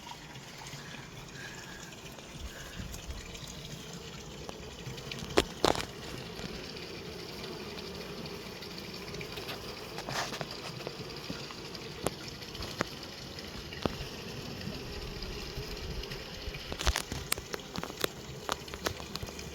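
Steady hum of a busy honeybee colony at a Layens hive, many bees buzzing together, with a few sharp clicks scattered through it.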